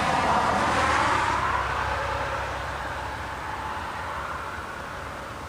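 A motor vehicle going past, loudest about a second in, then fading away as it moves off.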